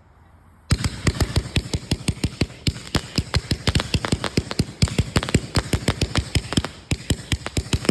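Firecrackers going off in a rapid string of sharp bangs, many a second, starting suddenly less than a second in and carrying on without a break.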